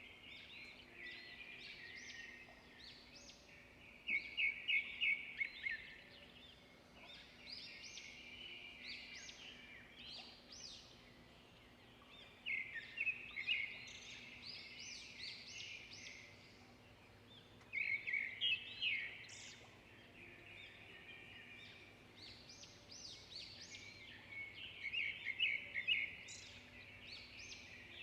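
Songbirds chirping and singing in a steady chorus of high calls, with a louder rapid trilled phrase breaking in four times, every six or seven seconds.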